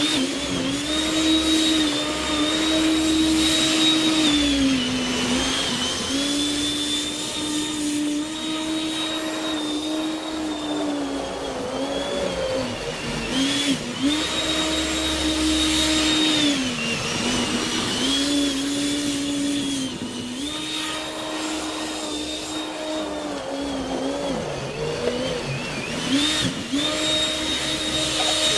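Electric snowblower's motor running with a steady whine, its pitch sagging every few seconds as it bogs down under load and then recovering.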